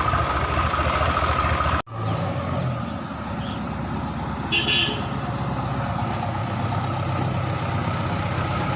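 Tractor diesel engine running steadily. About two seconds in, the sound cuts out for an instant and comes back slightly lower, and a short higher-pitched sound comes about halfway through.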